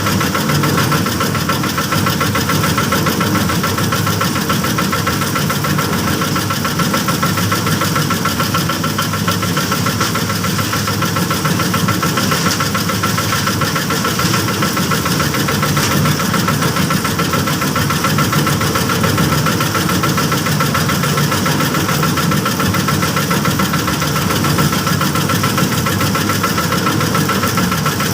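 Small engine of a bored-pile casting machine running steadily at an even speed, with no change in pace.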